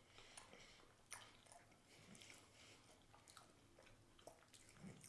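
Faint chewing of loaded mashed potatoes topped with bacon bits and cheese, with a few soft, short mouth clicks.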